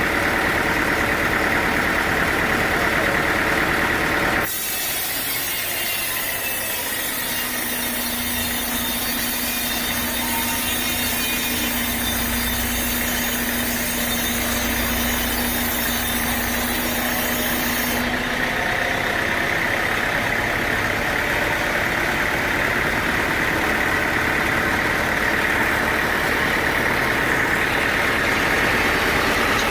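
Sawmill machinery running steadily. About four seconds in, the sound changes abruptly to a saw cutting through wood, with a high hiss and a steady hum. Near the middle it goes back to a steady machine drone.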